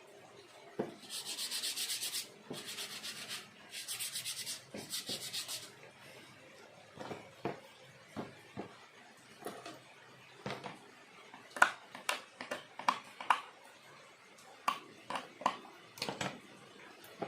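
Four short scraping strokes across carved bamboo of a hand-made bird cage, then a run of irregular light clicks and taps of bamboo and tools being handled.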